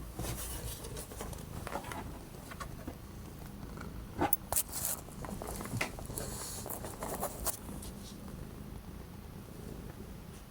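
A domestic cat purring, with scattered rustles and light taps.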